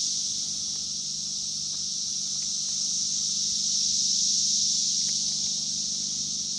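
Chorus of many cicadas singing together: a steady, high-pitched drone that holds without a break.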